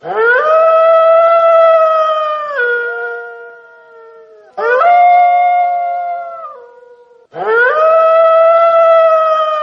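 Wolf howling: three long howls, each sweeping quickly up in pitch, holding a steady note and then dipping lower as it fades.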